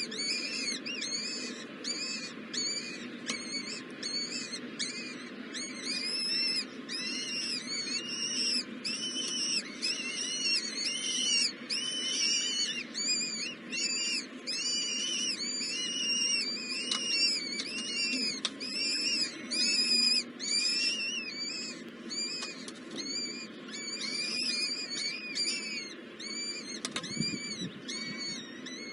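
Baby birds calling from the nest, a continuous run of short, high calls that rise and fall in pitch, about two a second, typical of nestlings begging for food.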